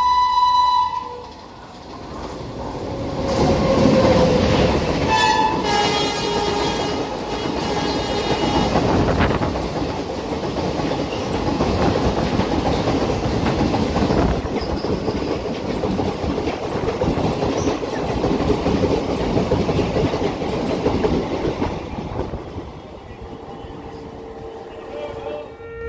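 An Indian Railways WAP-7 electric locomotive sounds its horn as it approaches and runs through the station hauling an express. The coaches then pass close by with a loud rumble and clickety-clack of wheels over rail joints, which fades away near the end.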